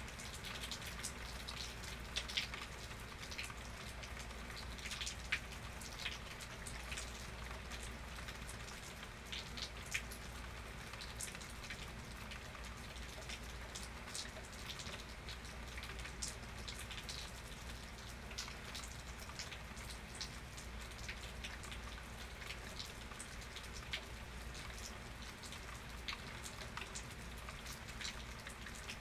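Steady rain falling, with individual drops ticking sharply on a nearby surface, the ticks coming more often in the first half.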